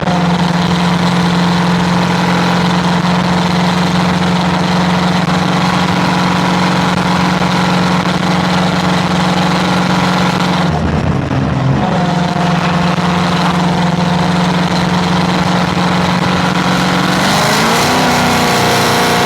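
Vehicle engine running at a steady speed with a constant drone, dipping briefly about eleven seconds in, then rising in pitch near the end.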